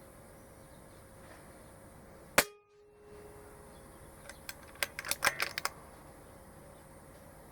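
A single sharp crack from an Air Arms S410 PCP air rifle firing a 5.5 mm pellet, about two seconds in. About two seconds later comes a quick cluster of quieter metallic clicks.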